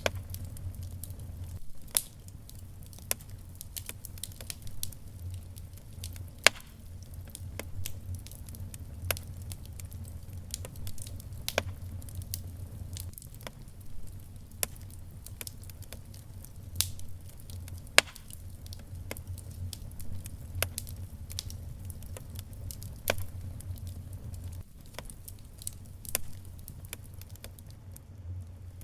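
Wood fire burning in a fireplace, with irregular sharp pops and crackles a second or two apart over a low steady rumble.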